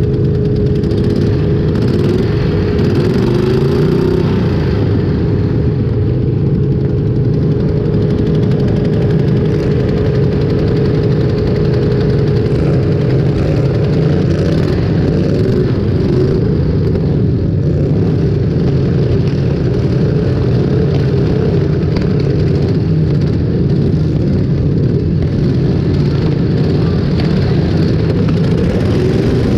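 Small engines of derby lawn tractors running loud and steady, with one revving so its pitch rises and falls a few seconds in, and a steady engine note that fades out about halfway through.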